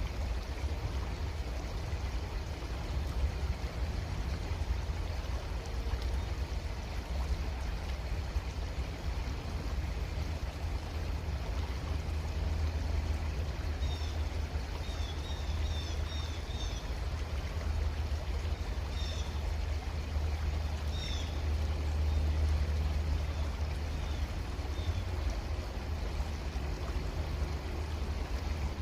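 Creek water flowing steadily, with a low rumble underneath. From about halfway, a bird gives several runs of short, high chirps.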